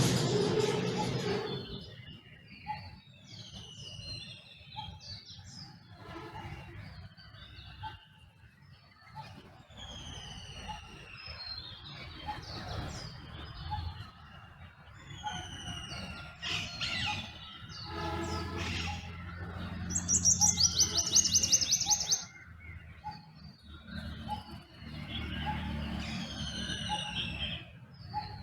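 Dawn chorus of several songbirds: overlapping short falling and rising whistles and chirps, with a loud rapid high trill about twenty seconds in. A loud noise fades out over the first two seconds, and a faint low rumble comes and goes in the background.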